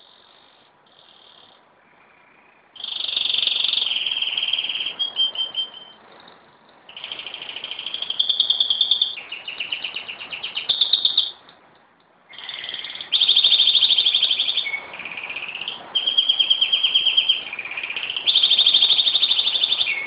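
Pet canary singing: a few short chirps, then from about three seconds in a long song of rapid, rolling trills in three bouts with brief pauses between.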